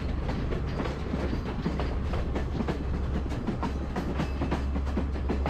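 Chennai-built passenger train running along the track, heard from its open doorway: a steady low rumble of the running gear with the wheels clicking over the rails.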